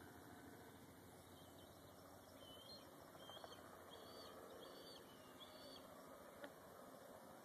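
Faint bird calls: a series of about five short, high notes roughly two-thirds of a second apart, over quiet outdoor background, with one faint click near the end.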